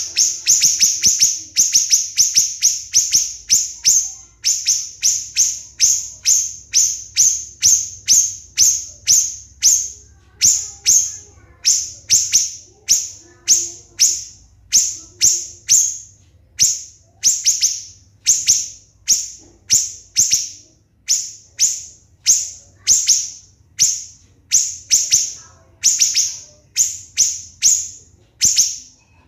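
Siri-siri bird calling in a long, even series of short, shrill, high-pitched notes, about two a second: the rapid 'tembakan' shot notes prized as a training model for competition songbirds.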